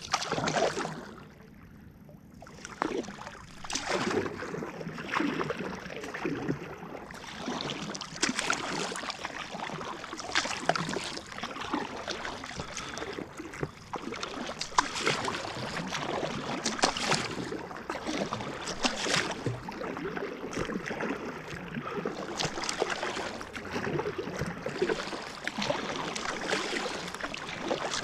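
Kayak paddle strokes splashing in the lake, with water washing along the hull, the strokes coming in a regular rhythm every second and a half to two seconds.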